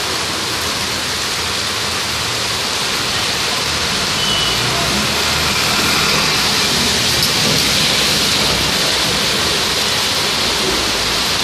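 Heavy rain pouring onto a paved street: a steady, loud hiss. About halfway through, a van drives through the flooded road and the noise swells, with a low engine and tyre rumble under the rain.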